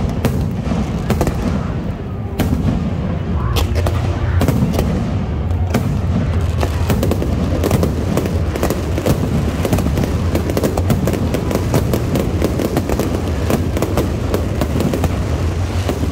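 Aerial fireworks display: shells bursting in a rapid, overlapping barrage of bangs over a continuous low rumble, the bangs coming thicker and faster from about six seconds in.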